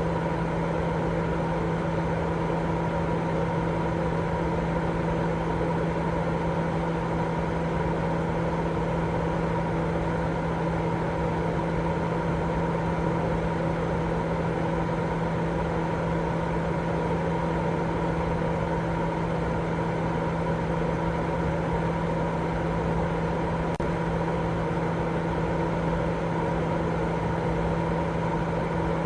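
Continuous baby-sleep white noise: a steady, unchanging rush, heavier in the low end, with a constant low hum running through it.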